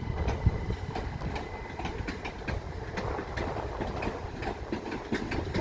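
Class 375 Electrostar electric multiple unit moving slowly through the station, a low rumble with its wheels clicking irregularly over rail joints and pointwork as it comes in to couple up to another unit.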